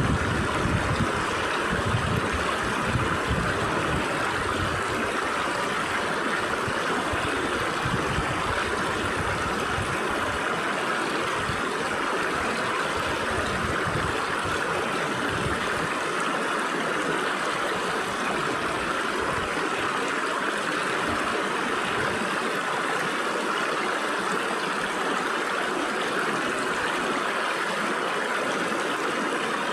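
Stream water flowing and splashing through gaps between rocks, a steady rushing sound. A low fluttering rumble sits under it in the first half and fades out about halfway through.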